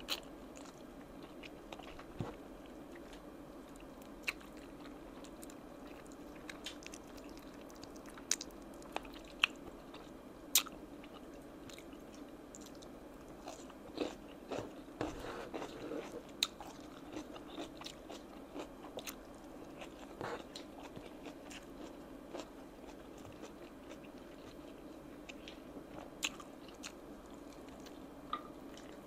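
Close-miked chewing and biting of oven-roasted chicken wings, with scattered sharp mouth clicks and a busier stretch of chewing about halfway through, over a faint steady hum.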